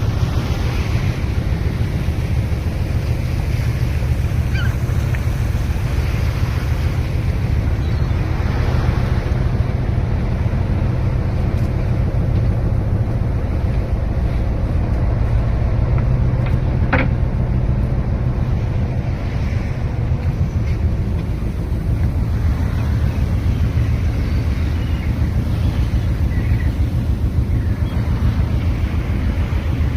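Fishing boat at sea: a steady low engine rumble with wind and water noise over it, and one sharp click about halfway through.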